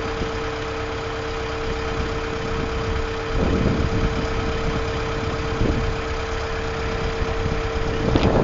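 Box truck engine running steadily with a constant hum, with a few louder swells of noise partway through and near the end.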